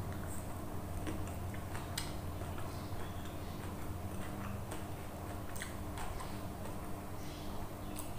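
Close-up eating sounds: irregularly spaced wet clicks and smacks of chewing a mouthful of rice and side dishes, over a steady low hum.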